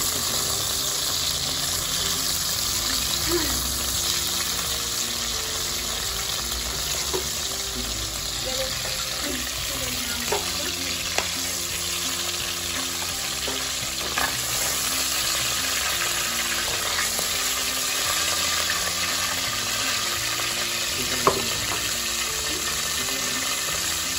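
Prawns sizzling steadily as they fry in hot oil in a wok. A few sharp clicks come from the metal spatula knocking the pan as the prawns are turned and lifted out.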